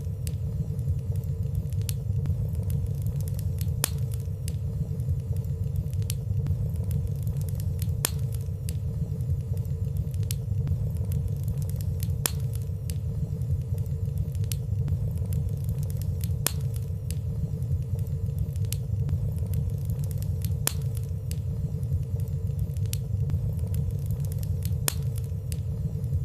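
Fireplace wood fire burning with a steady low rumble of flame and small, scattered crackles every second or so.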